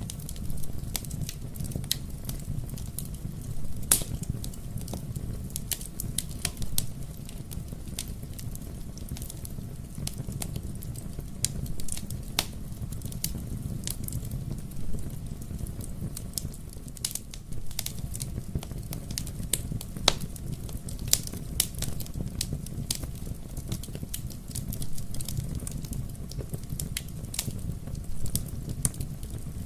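Wood fire burning in a fireplace: a steady low rumble of flames with irregular crackles and pops, a few of them sharper and louder.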